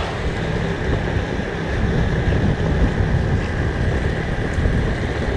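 Wind rushing over the microphone with a steady low rumble while riding an electric skateboard.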